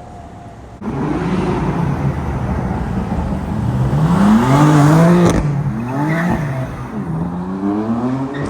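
A car engine accelerating hard, its pitch climbing, dropping back at each gear change and climbing again, loudest about halfway through.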